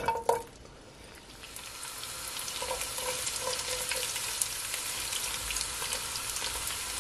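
Sliced onion dropped into hot olive oil in a pot, with a couple of knocks as it goes in, then sizzling that grows over the first few seconds and settles into steady frying with small crackles.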